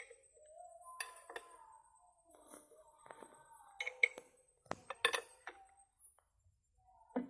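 Metal parts clinking and tapping in a series of sharp, irregular knocks, with a loud cluster about four to five seconds in, and faint voices in the background.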